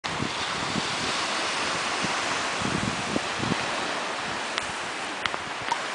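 Steady rushing wind noise, with low irregular buffets of wind striking the microphone. A few light clicks come near the end.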